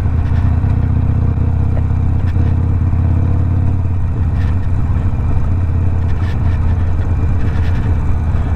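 Harley-Davidson Sportster Iron 1200's air-cooled V-twin running under way through a Two Brothers 2-into-1 exhaust, a steady low rumble that dips briefly about four seconds in before picking up again.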